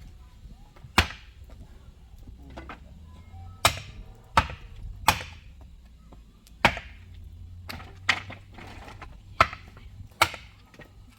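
Hand tool chopping wood: about eight sharp, loud blows at uneven intervals, the first about a second in, each with a short ringing tail.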